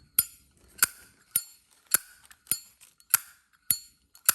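Solid-brass, powder-coated Zippo lighter being flicked open and snapped shut over and over: eight sharp metallic clicks with a short ringing clink, about 0.6 s apart. The clink sounds quite nice, the mark of a good lid, hinge and cam action.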